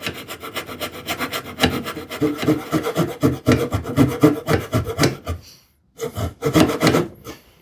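Freshly sharpened hand saw cutting into wood in quick, rhythmic back-and-forth strokes. The strokes stop briefly about five and a half seconds in, then a few more follow.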